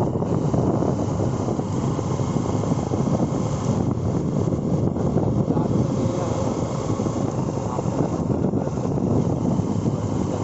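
Motorcycle running steadily at road speed, its engine mixed with a steady rush of wind on the microphone.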